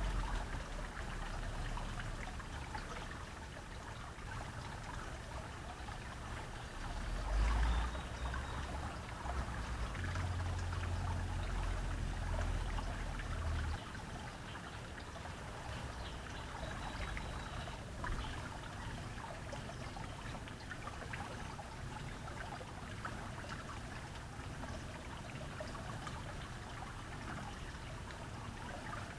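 Steady trickle of running water, with a low rumble underneath that cuts off suddenly about halfway through.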